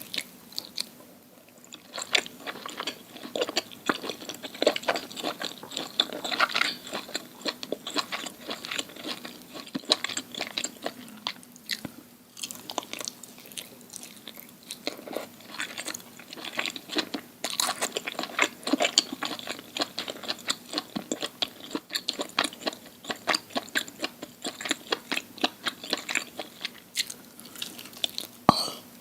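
Close-miked chewing of crunchy food, with irregular crackling bites and crunches coming steadily one after another.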